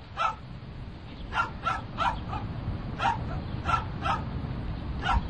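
A dog barking in a string of short, sharp barks, several coming in quick pairs, over a steady low rumble.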